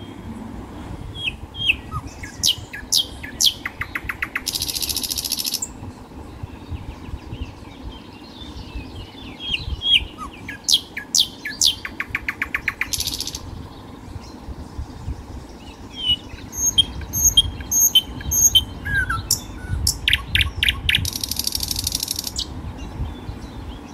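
Birds chirping and singing: short high chirps and quick trills, with a trilled phrase ending in a short hiss that comes back three times, about every eight seconds.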